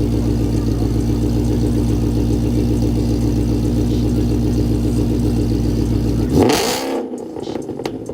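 A car engine running steadily at idle with a deep, even note. About six seconds in it ends abruptly in a short, loud burst, leaving only faint clicks.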